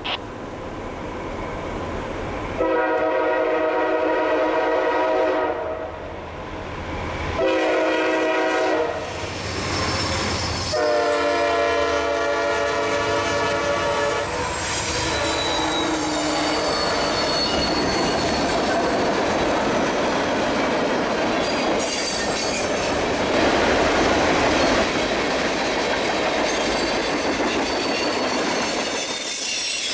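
Diesel freight locomotive's air horn sounding three blasts, long, short and long, as the train nears. Then the locomotives run close past and a string of tank cars follows, with the wheels clattering over the rails and a high squeal from the wheels.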